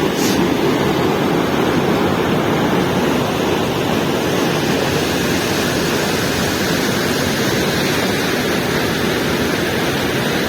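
Steady, loud rush of running water, like a rain-forest waterfall or fast stream, with a brief faint high sound just after the start.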